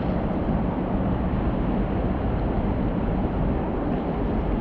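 Steady wind rumbling on the microphone, an even noise with no distinct events.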